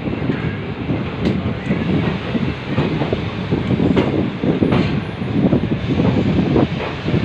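Indian Railways passenger train running on the rails: a steady rumble of wheels on track broken by frequent irregular clacks and knocks.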